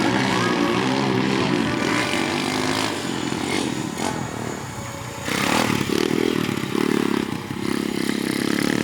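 Dirt bike engine revving, its pitch rising and falling, then several throttle bursts in quick succession in the second half.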